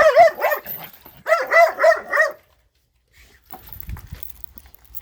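Dog barking in two quick runs of short, high-pitched yelping barks, about four a second; the second run comes about a second in.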